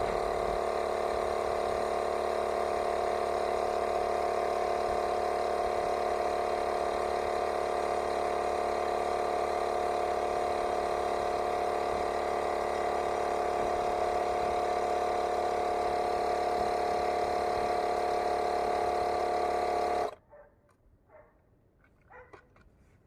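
Cordless battery-powered air compressor running steadily while inflating a car tyre, then cutting off suddenly about three seconds before the end as its automatic shut-off stops it at the preset pressure.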